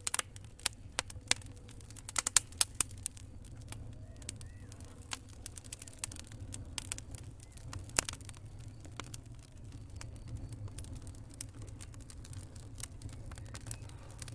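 Wood fire crackling in a fireplace: irregular sharp pops and snaps, a quick cluster about two seconds in and a loud single pop about eight seconds in, over a low steady rumble.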